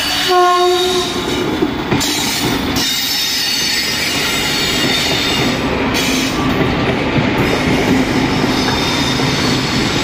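Indian Railways electric locomotive and its passenger coaches passing close by: a brief horn note about half a second in, then the steady rumble and clatter of wheels rolling over the track.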